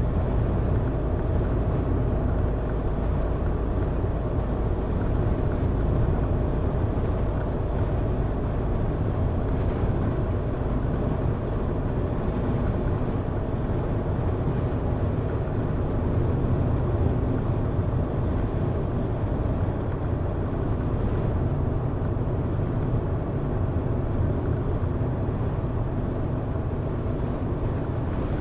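Car driving at a steady pace: a constant low drone of engine and tyre noise, unchanging throughout.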